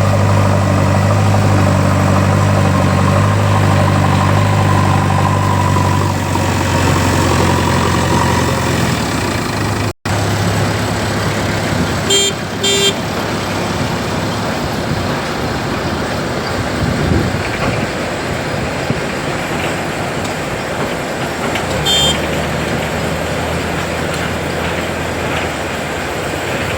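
Diesel engine of a JCB 3DX backhoe loader running steadily. After an abrupt cut about ten seconds in, it gives way to noisier vehicle sound, with two short horn toots a couple of seconds later and one more toot about ten seconds after that.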